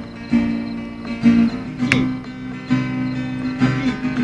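Acoustic guitar strummed in a steady rhythm, a chord struck about once a second and left ringing.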